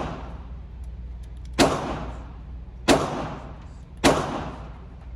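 Three 9mm pistol shots from a Glock 19, about a second and a quarter apart, each ringing out in a long echo inside an indoor range.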